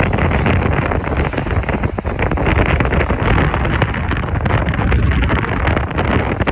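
Strong wind buffeting the microphone: loud, continuous rumbling gusts.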